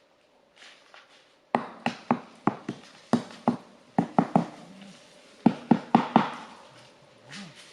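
About fifteen sharp knocks on wood at an uneven pace, as a tree trunk is hacked open with a blade. The strikes begin about a second and a half in and stop a little past the middle.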